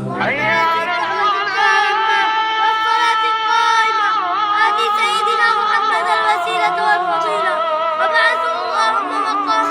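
Nasheed sung without instruments: long, wavering wordless vocal notes held between the lines of the refrain, opening with a rising glide.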